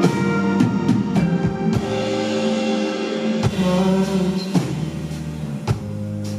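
A live rock band playing a passage of the song between sung lines: sustained bass and guitar notes with drum-kit hits.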